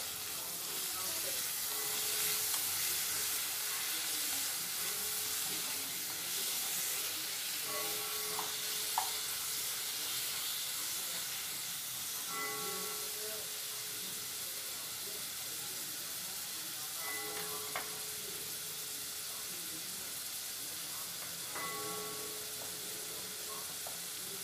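Chopped onions and tomatoes sizzling in hot oil in a nonstick pot, with a spatula stirring them now and then. The sizzle is a steady hiss, a little louder in the first half.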